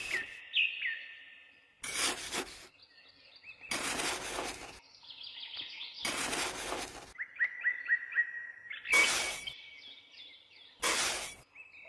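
A small hand scoop scraping and digging sand out of a plastic pond liner: five short scrapes about two seconds apart. Birds chirp steadily in the background.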